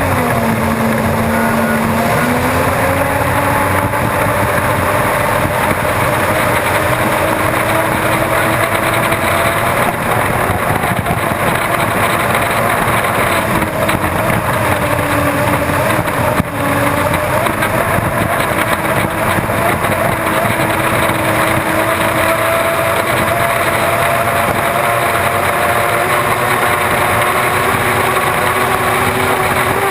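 Unlimited hydroplane's Lycoming T55 turbine engine running at racing speed, heard onboard over a constant rushing noise. Its pitch dips about a second in, then climbs and holds fairly steady with slow drifts.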